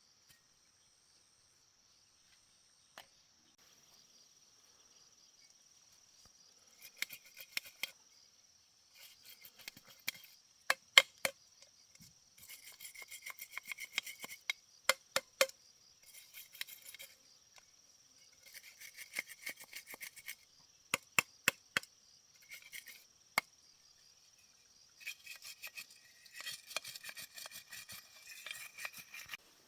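Crickets chirring steadily, with bursts of scraping and rattling and sharp clinks and taps from hand work on a repair, starting about seven seconds in.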